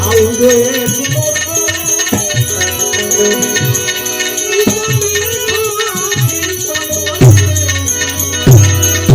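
Instrumental passage of Gujarati santvani devotional folk music: held melody lines over a steady jingling rattle. Deep drum beats drop out early on and come back strongly about seven seconds in.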